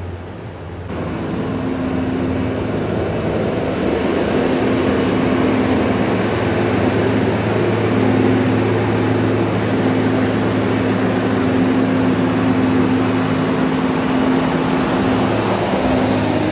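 Diesel engine of a Storti Dobermann self-propelled feed mixer wagon (285 hp) running with an even hum, getting louder over the first couple of seconds and then holding steady.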